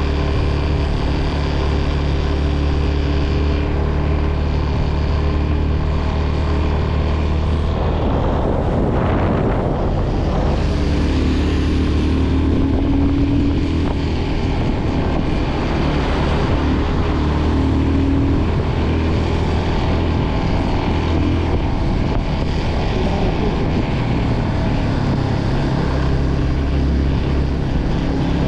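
Motorcycle engine running steadily while riding, with wind buffeting the microphone. The engine note shifts about a third of the way in and again near the end.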